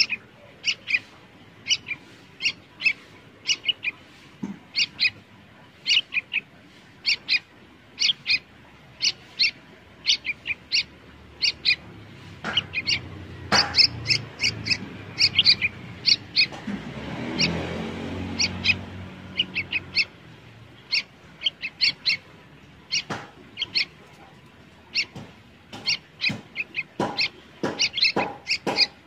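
A bird chirping over and over in short, sharp, high calls, about one or two a second. Midway a low rumble swells and fades over several seconds, and a few short knocks are heard.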